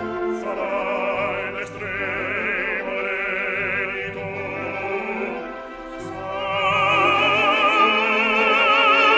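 Operatic singing with orchestral accompaniment: a trained voice holds long notes with wide vibrato, eases off about two-thirds of the way through, then swells into a louder sustained note near the end.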